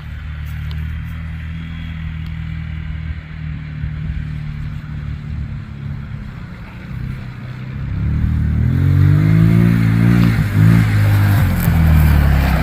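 A small vehicle engine running at low revs, then getting louder from about eight seconds in as it is revved, its pitch rising and falling.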